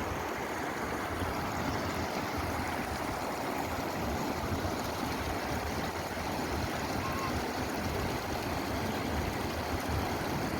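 Steady rushing of a glacial meltwater stream, a continuous noisy roar of fast-flowing water with an uneven low rumble underneath.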